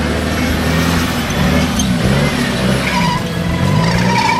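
Toyota 4Runner's engine revving up and down under load as the four-wheel drive climbs a rutted dirt hill, its pitch rising and falling with the throttle.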